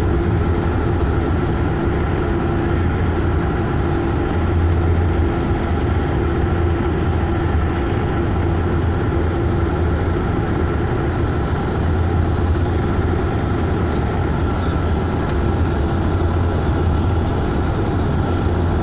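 Cabin drone of a De Havilland Dash 8-400 turboprop airliner: its engines and propellers are running steadily, with a deep hum and a few steady tones above it, while the aircraft comes in to land.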